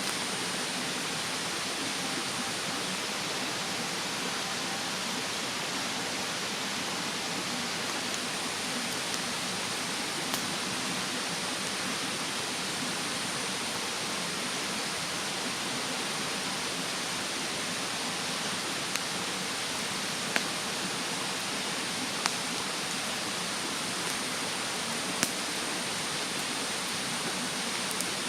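Wood campfire burning in a fire stand, giving a few sharp, separate crackles and pops, over the steady rushing of a mountain stream.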